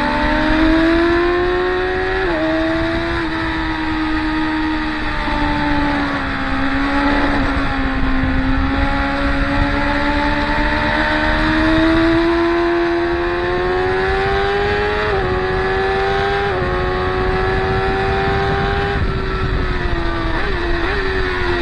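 Track-day motorcycles being ridden hard past the corner, engines revving continuously. The engine pitch climbs and drops sharply at gear changes several times.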